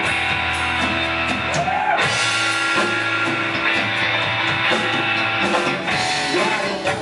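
A live rock band playing, with guitar to the fore. About two seconds in the music changes and the deep bass thins out.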